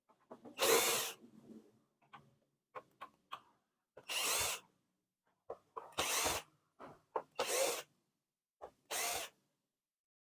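Electric screwdriver running in five short bursts, backing out screws while the copier's document feeder is taken apart, with small clicks of screws and plastic parts being handled in between.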